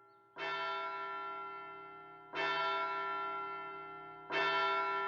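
A bell tolling: three strokes about two seconds apart, each ringing on and slowly fading.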